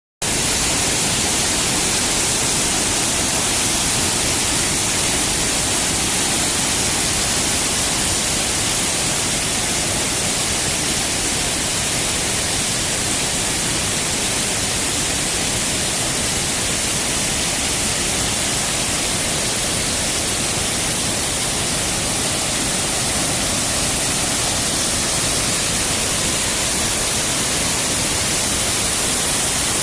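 Waterfall: a loud, steady rush of falling water with a strong hiss, never changing.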